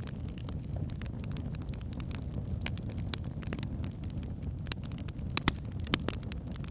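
Wood fire burning in a fireplace: a steady low rumble of flames with irregular sharp crackles and pops from the logs, two louder pops about five and a half and six seconds in.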